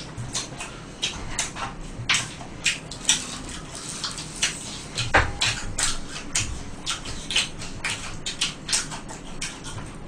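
Crispy fried chicken being bitten and chewed, an irregular run of sharp crunches several times a second.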